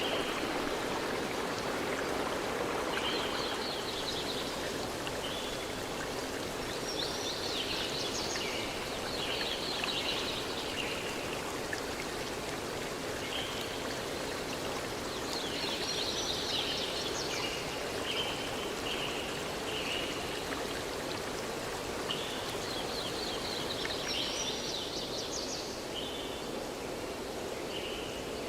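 Steady rush of running water in a forest, with a songbird singing short chirping phrases every few seconds over it.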